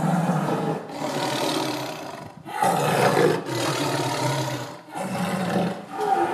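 Tiger roaring and growling in several long, rough roars, each a second or two long, one after another with only short breaks.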